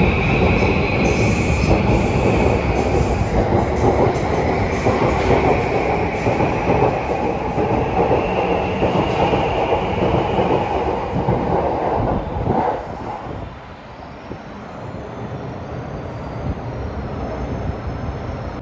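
Electric commuter train pulling out of the platform and running past, with wheel clatter and a high whine above it. The noise drops off suddenly about thirteen seconds in as the last car clears, leaving a lower hum.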